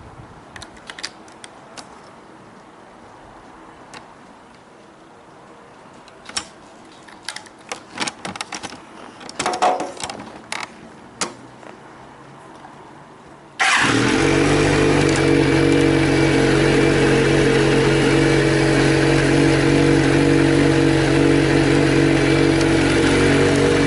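A series of light clicks and knocks, then about fourteen seconds in the Kawasaki Z400J's air-cooled inline-four engine suddenly catches. It then idles steadily.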